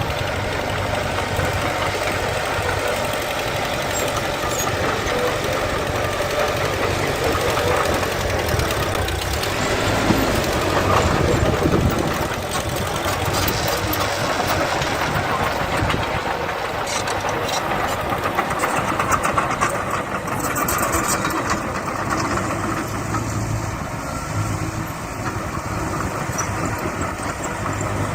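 Diesel engines of earthmoving machinery (bulldozer and dump trucks) running steadily, swelling for a moment a little before halfway, with a run of sharp clicks and rattles past the middle.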